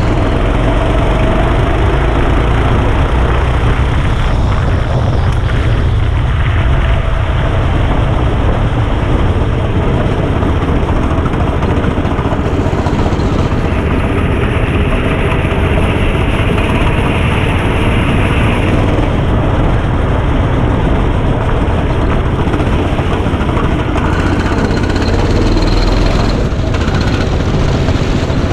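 Go-kart engine running continuously under a GoPro's onboard mic, with a dense rumble and noise throughout and an added hiss for several seconds near the middle.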